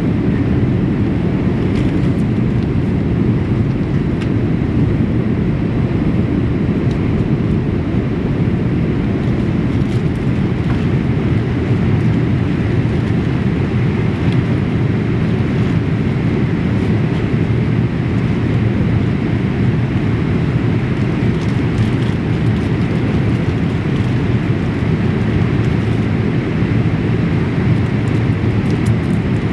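Steady cabin noise inside a Boeing 787-8 airliner: an even low rumble of engines and airflow, with no change in level.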